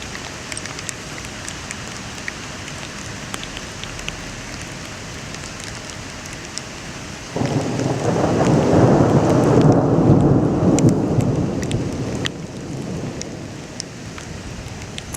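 Steady rain falling, with scattered drips. About seven seconds in, thunder starts suddenly and rumbles for several seconds before fading away.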